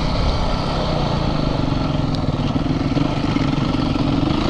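Single-cylinder four-stroke dirt bike engine running steadily, close to the microphone, with no clear revving.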